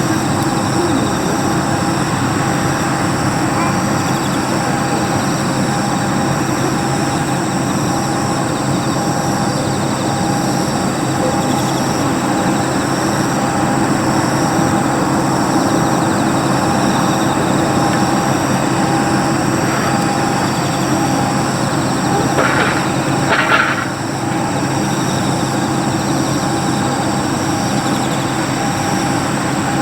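Jet airliner engines running steadily, a constant rush with a high, even whine.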